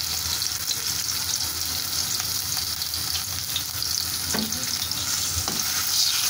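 Diced chicken and sliced onions sizzling steadily in hot oil in a metal karahi, stirred with a metal spatula that knocks against the pan a couple of times.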